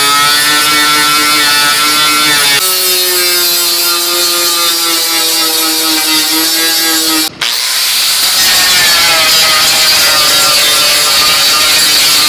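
A power tool motor running under load, its whine stepping up in pitch a few seconds in, with a brief cut about seven seconds in before it carries on with a rougher, noisier sound.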